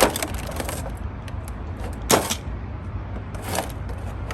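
Sharp clicks and knocks of a plastic toy remote-control stunt car being handled, with the loudest knock about two seconds in and another near the end. No motor is heard running.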